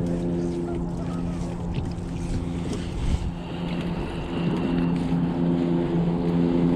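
A motorboat's engine running at a steady hum, which dips in the middle and grows stronger in the second half, over wind and water noise.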